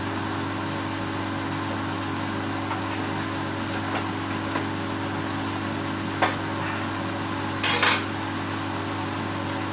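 Evolution Rage 5S table saw running with a steady hum, while the rebates for the drawer bottoms are cut. There is a sharp knock of wood about six seconds in and a short hiss just before eight seconds.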